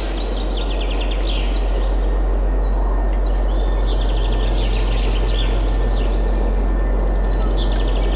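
Birds singing in repeated quick chirping trills over a steady rush of wind with a deep low rumble.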